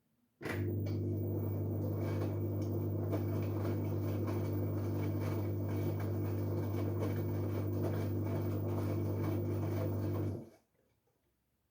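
LG Direct Drive 8.5 kg washing machine running a steady low hum with a rushing noise over it. It switches on abruptly about half a second in and cuts off just as abruptly about ten seconds later.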